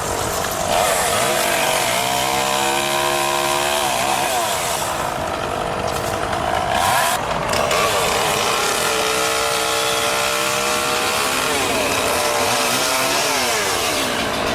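Chainsaw running, its engine pitch falling and rising again several times as it revs up and down.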